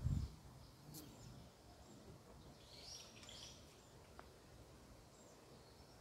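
Quiet open-air background with a short cluster of faint, high bird chirps about halfway through. A low thump at the very start, the loudest thing here, is likely wind or handling on the microphone.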